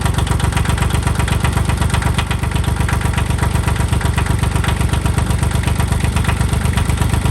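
Kubota L245DT diesel tractor engine running steadily with an even, rapid diesel beat, still cold just after a hard cold start.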